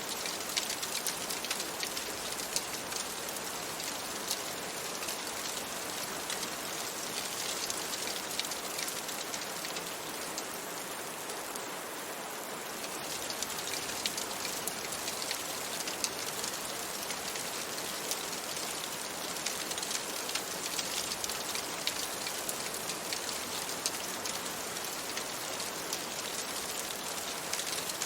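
Steady rain falling on a window, with many small sharp ticks of drops running through the steady hiss.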